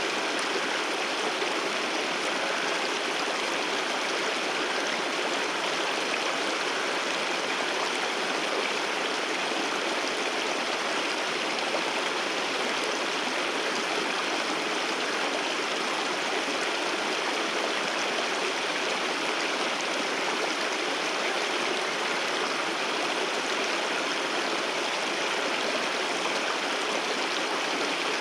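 Waterfall rushing: a steady, even roar of water with no pauses or changes.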